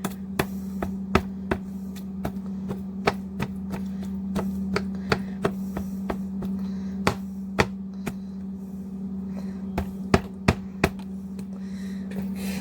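A fork stabbing raw, still partly frozen chicken pieces, its tines tapping sharply through the meat onto the plate or board at an irregular pace of about two taps a second. A steady low hum runs underneath.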